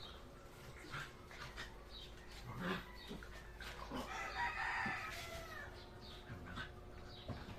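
A rooster crows once about four seconds in, a single call lasting about a second, with faint scattered clicks around it.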